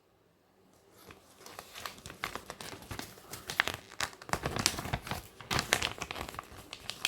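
Paper rustling and crinkling as an instruction manual is handled and its pages turned, starting about a second in, with many small irregular crackles.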